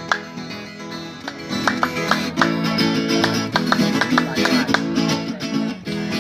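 Instrumental break of a Brazilian country song: acoustic guitars plucked and strummed, with no singing. The playing thins about a second in, then comes back fuller.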